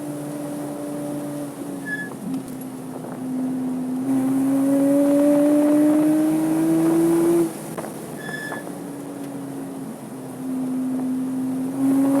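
Porsche 987.2 Cayman S flat-six heard onboard at full throttle, its pitch climbing steadily. About seven and a half seconds in it lifts off and runs quieter, then comes back on the throttle near the end. Two short high chirps sound, one early and one just after the lift.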